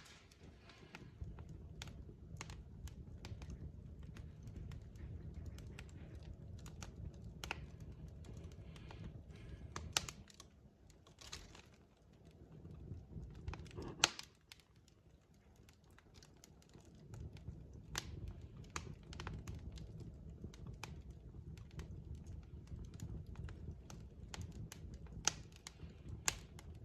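Burning logs in a fireplace crackling and popping irregularly over a low, steady rumble of flame. The sharpest pop comes about halfway through.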